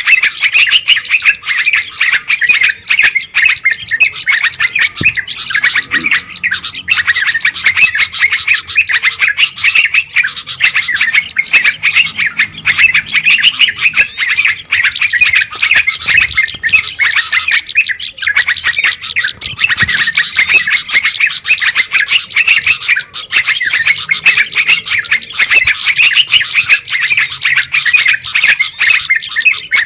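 Many small songbirds chattering and chirping noisily together, high rapid calls overlapping without pause. It is a bird-lure recording of a noisy, excited flock, played to draw in wild birds such as bulbuls.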